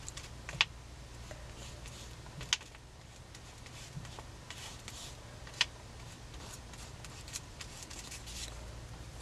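Sparse light clicks and taps, about three sharp ones, with faint scratchy rustling between them: craft tools and paper being handled on a work surface.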